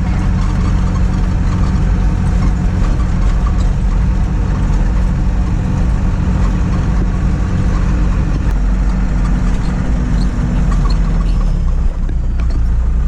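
Mitsubishi Fuso dump truck's diesel engine running with a loud, steady low drone. Its note changes about two-thirds of the way through and again near the end.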